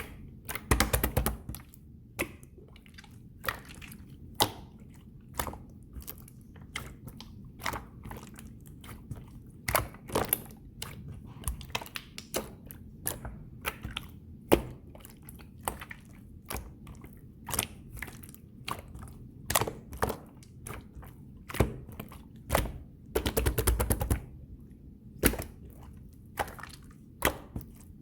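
Clear slime being pressed and stretched by hand, giving irregular sticky clicks and pops, with denser runs of crackling about a second in and again near the end.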